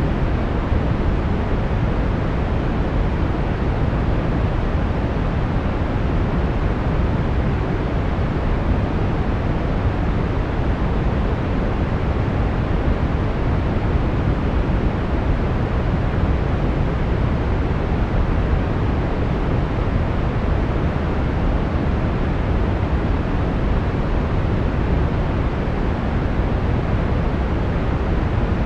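Brown noise: a steady, even hiss weighted toward the low end, deep and rumbling with the highs rolled off, unchanging throughout.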